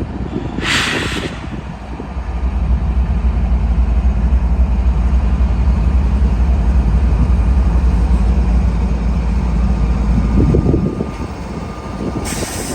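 Train passing close by with a deep, steady rumble, and a short hiss about a second in. Near the end a high metallic squeal of train wheels begins.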